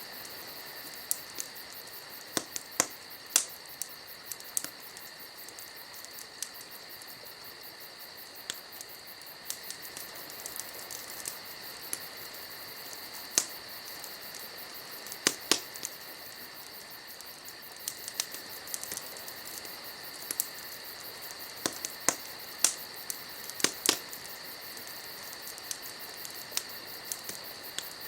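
Wood fire crackling, with irregular sharp pops, a few much louder, over a steady high chirring of insects.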